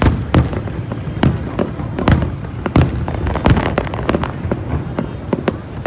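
Fireworks going off in a dense display: many irregular sharp bangs, several a second, over a constant low rumble of more distant shells.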